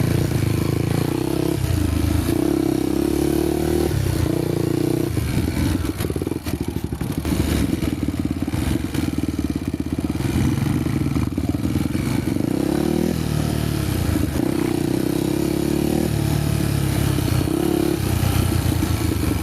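Honda motorcycle engine running under changing throttle, its pitch rising and falling several times.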